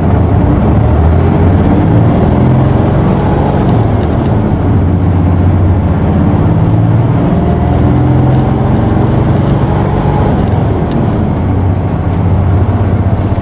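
Isuzu PKG-KV234L2 city bus's inline-six turbodiesel running hard under load, heard from inside the cabin. Its pitch rises and falls with the throttle.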